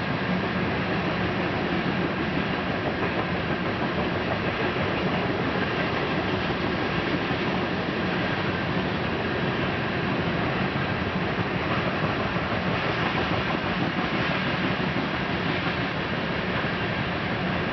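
Freight train cars rolling past on the rails, a steady rumble of wheels on track with a faint steady high whine.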